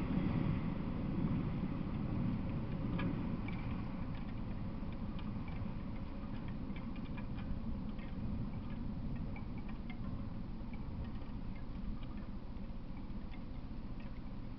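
Low rumble of a freight train that has just passed, fading away over the first couple of seconds, then a steady low background with faint, irregular ticks and clicks.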